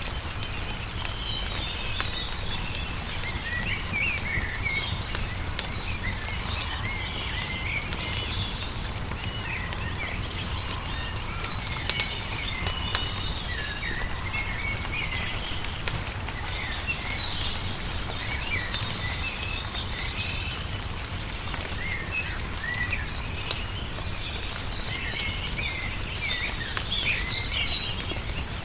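Small songbirds chirping and twittering continuously, over a wood fire crackling with scattered sharp pops and a steady low rumble beneath.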